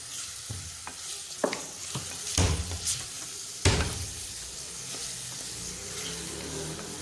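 Boneless chicken pieces frying in oil and spice masala, sizzling steadily while a wooden spoon stirs and scrapes them around the pan. A few louder scrapes and knocks of the spoon come about a second and a half, two and a half, and nearly four seconds in.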